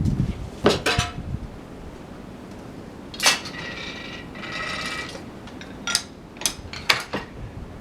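Sharp metal clanks and knocks as a log is handled on a portable sawmill bed with a cam hook and log-handling gear, with a metallic squeal lasting about two seconds near the middle.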